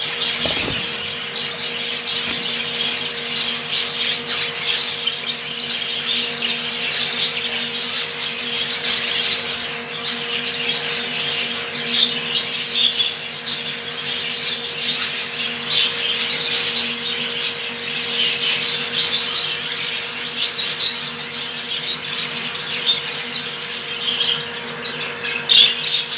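Small cage birds, canaries or finches, chirping and calling with many short, high chirps and squawks in quick succession, over a faint steady hum.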